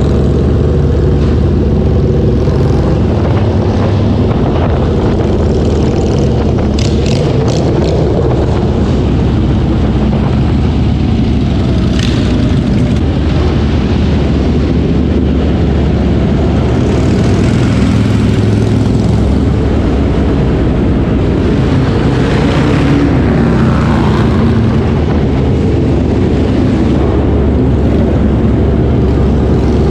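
Harley-Davidson V-twin motorcycle engine running steadily under way, a dense low drone at an even level, with a few brief clicks about seven seconds in.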